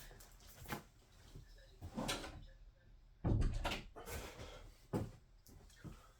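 Cardboard box being handled: a few separate knocks and scrapes, the loudest about three seconds in.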